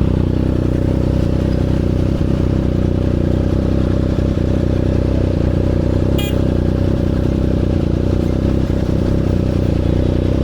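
Single-cylinder engine of a KTM Duke 250 motorcycle running at steady revs while riding, with no change in pitch. A brief high-pitched chirp comes about six seconds in.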